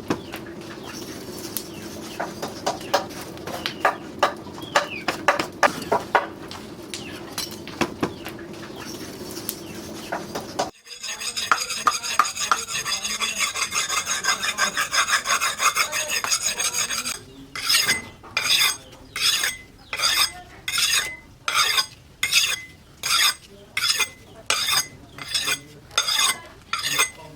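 Rasping, scraping strokes of steel against a hard surface while the leaf-spring knife is worked. First come uneven scrapes and clicks, then a steady rasp, and from about the middle on, even strokes at about two a second.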